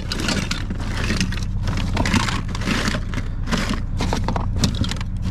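Rummaging through a pile of discarded toys: die-cast Hot Wheels cars and small plastic items clattering and scraping against one another in quick, irregular bursts, over a steady low hum.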